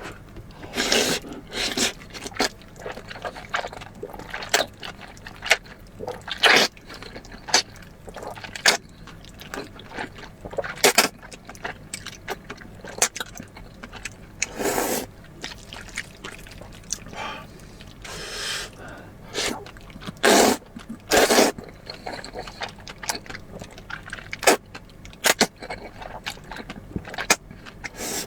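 Close-up eating sounds: slurping potato starch noodles in sauce, with wet mouth clicks and chewing. Longer slurps come every few seconds between many short sharp clicks.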